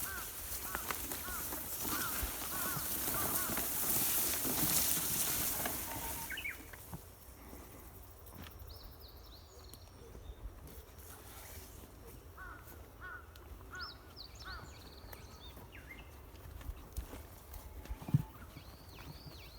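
Outdoor farm-field ambience with birds giving short, repeated chirping calls. A rustling hiss during the first six seconds then dies away, and there is a single knock near the end.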